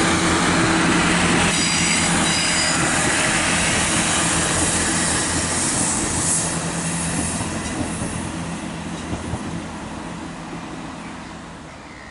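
GWR passenger train running past on the tracks, its wheels squealing briefly about two seconds in. The sound then fades away steadily as the train moves off.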